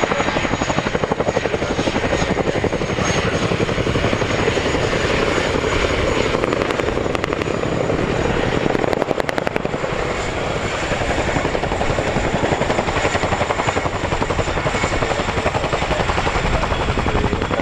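Helicopter rotor beating steadily and loudly, a fast rhythmic blade chop over turbine and engine noise.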